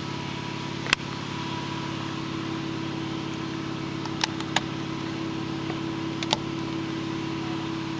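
Steady low mechanical hum with a few sharp clicks, about a second in and again around four and six seconds.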